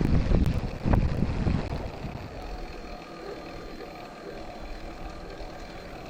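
Wind buffeting the microphone, in loud low gusts for about the first two seconds, then a steadier, quieter rush.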